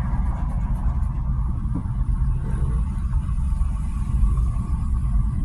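Car travelling along a freeway: a steady low rumble of road and engine noise.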